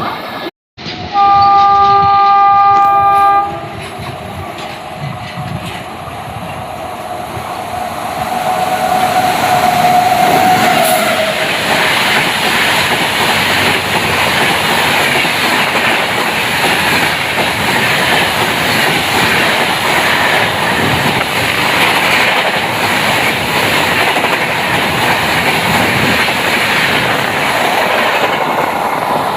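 Indian Railways WAP-7 electric locomotive sounding its multi-tone horn for about two seconds, then a fainter horn note that drops in pitch, as the express train arrives; from about eight seconds in the loud rushing rattle and clickety-clack of the train's coaches passing at high speed fills the rest.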